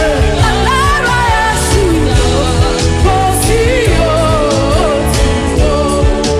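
Gospel worship music: a voice sings a winding, wavering melody over a band with steady bass and drum strikes.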